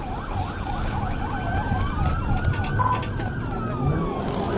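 Police car siren on the fast yelp setting, its pitch sweeping up and down about three or four times a second. A second siren makes one slower long rise and fall in the middle. Steady engine and road noise from the pursuing car runs underneath.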